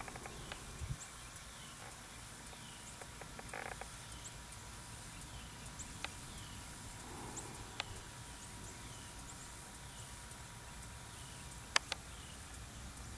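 Quiet outdoor ambience with a faint high chirp, falling in pitch, repeating about once a second, and a few sharp clicks, the loudest near the end.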